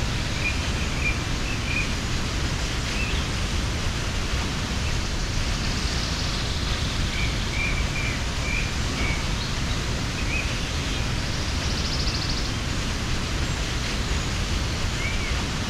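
A waterfall rushing steadily, with small birds chirping in short series a few times over it.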